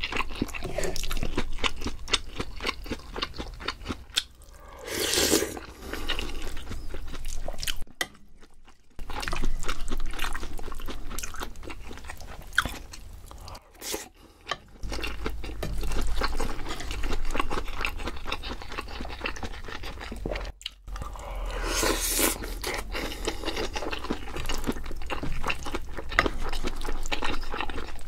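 Close-miked eating: steady chewing and crunching of food, with the wet clicks of the mouth. There are two louder stretches about 5 and 22 seconds in, and short pauses between mouthfuls.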